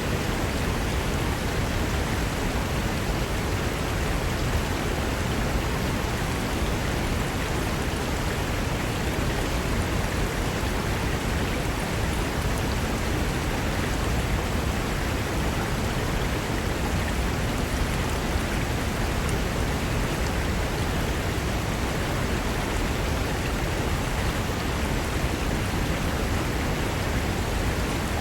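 Fast mountain river rushing over rocks: a steady, dense roar of water.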